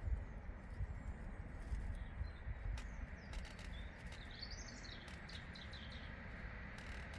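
Meadow ambience: a songbird sings one short run of high chirps about halfway through, over a low gusty rumble and scattered faint clicks.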